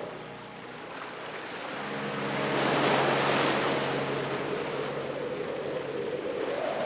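Ocean surf: a wave washes in, swelling to a peak about three seconds in, then draws back. A steady low hum fades out at the start and comes back near the end.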